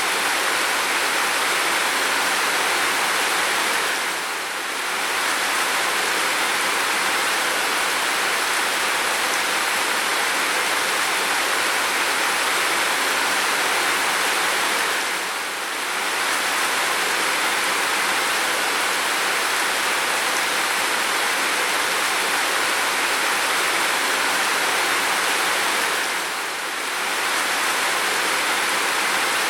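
Steady downpour of heavy rain, a dense even hiss. The level dips briefly three times, about every eleven seconds.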